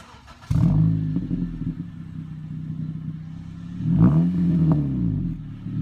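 2014 Honda Civic Si's 2.4-litre four-cylinder engine through a muffler-deleted exhaust: a sharp jump in engine note about half a second in settles to a steady idle, then a quick rev that rises and falls back around four seconds in.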